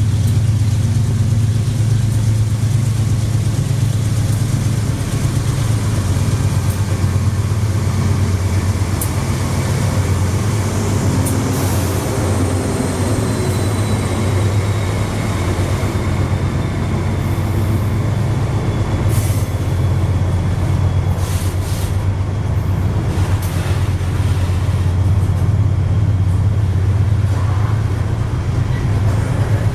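Freight train passing on the Rumo-ALL line: the steady low drone of diesel-electric locomotives, with wagons rolling by, scattered metallic clanks and a faint high wheel squeal around the middle.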